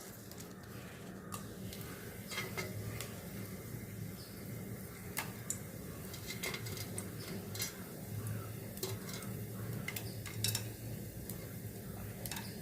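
Whole spices (bay leaves, cardamom, cloves, cinnamon) frying quietly in hot sunflower oil in a pressure pan, with scattered sharp crackles and pops as they temper.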